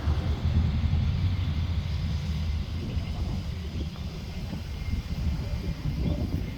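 Low rumble of an Airbus A320's jet engines during takeoff, easing slightly a few seconds in.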